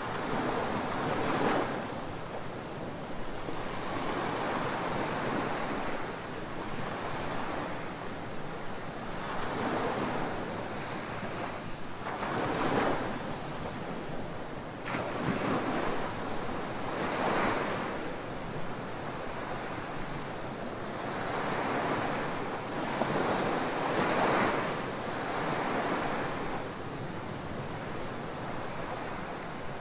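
Ocean waves breaking and washing up on a beach, a continuous surf with a fresh surge every few seconds.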